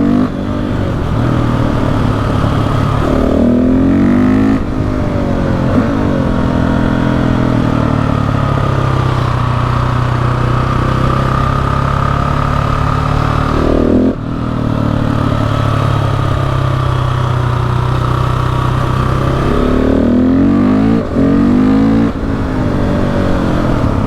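KTM 690 SMC R's single-cylinder engine under way, revving up in several rising pulls with brief dips in sound at gear changes about four, fourteen and twenty-one seconds in.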